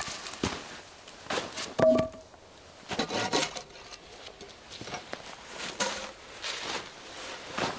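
Pieces of wood knocked and rubbed together in a series of separate knocks and scrapes. The loudest is a sharp knock about two seconds in, with a brief ringing note.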